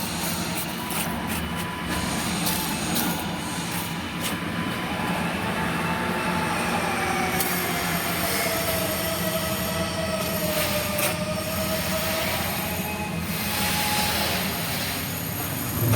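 Flux-cored arc welding: a steady crackling hiss from the arc, with scattered sharp crackles and a faint tone that wavers slowly in pitch.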